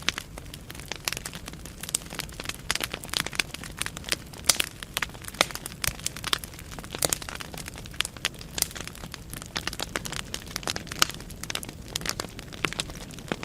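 Burning wood in a fireplace crackling: irregular sharp pops and snaps, many per second, over a low steady rumble of flames.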